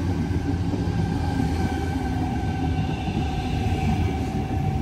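Sydney Trains electric suburban train running at the platform: a steady rumble of wheels and running gear, with a steady electric whine from its motors on top.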